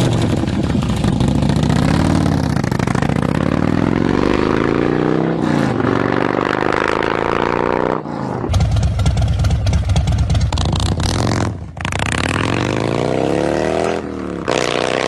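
Harley-Davidson motorcycle engines heard one after another in short cuts, each running and being revved so that the pitch climbs and falls back. The sound changes abruptly several times as one bike gives way to the next.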